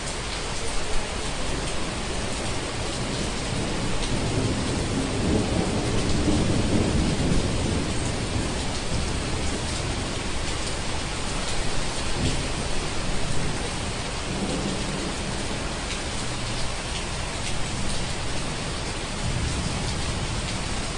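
Steady rain with rolling thunder: a long low rumble swells about four seconds in and dies away by about eight seconds, with fainter rumbles later.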